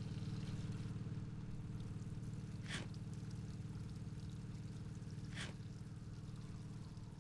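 A steady low mechanical hum, with a short sharp hiss about every three seconds, three times in all.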